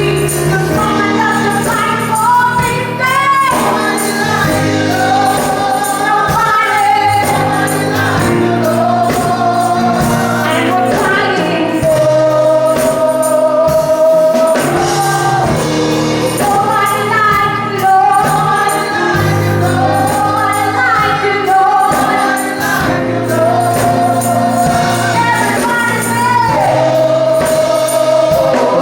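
A gospel praise team singing with instrumental accompaniment, voices holding long notes with vibrato.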